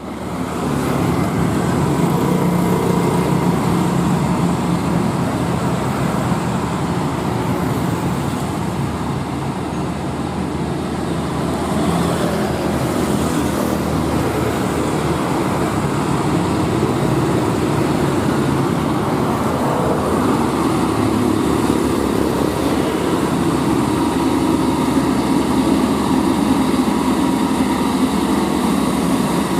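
Heavy truck engine pulling up a steep grade, a steady drone that shifts slowly in pitch, with road traffic noise.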